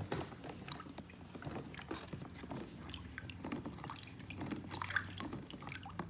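Water dripping and splashing lightly in a plastic Aquaplay toy water playset as a toy boat rides down its slide, with scattered small knocks.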